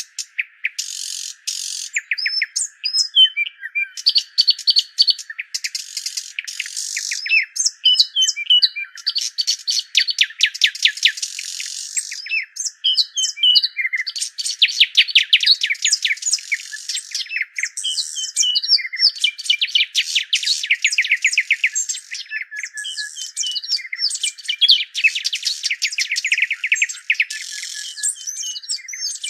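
Birds chirping and singing: a dense chorus of fast trills and short whistled glides coming in bursts with brief gaps.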